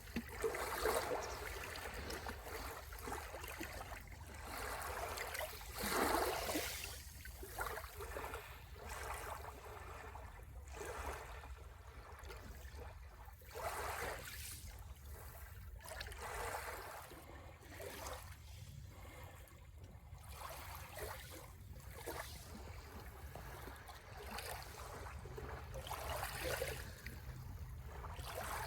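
Ocean waves breaking and washing ashore in repeated surges every few seconds, loudest about six seconds in.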